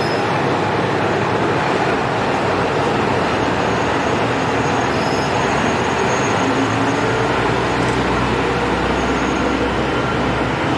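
Train running, with a steady rolling and rumbling noise. A low drone joins about seven seconds in.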